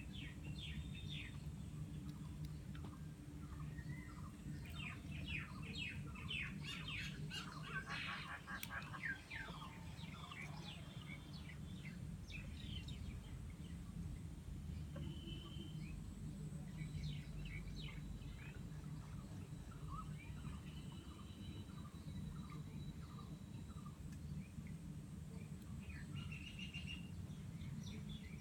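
Small birds chirping and twittering in quick trills, busiest about six to nine seconds in, over a steady low background rumble.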